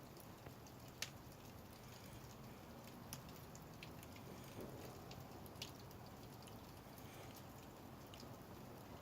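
Faint, scattered sharp pops and crackles of firewood burning in a wood-fired kiln, a few seconds apart, over a low steady background.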